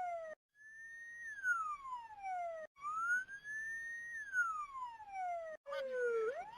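Emergency vehicle siren wailing in slow rising and falling sweeps, about three seconds per cycle, with a few brief dropouts; near the end it sweeps up more quickly.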